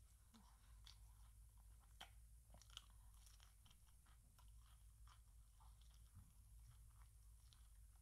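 Faint chewing and crunching of fried chicken being eaten from a small piece held in the hands, with scattered small clicks and two sharper snaps about two seconds and nearly three seconds in. A low steady hum underneath.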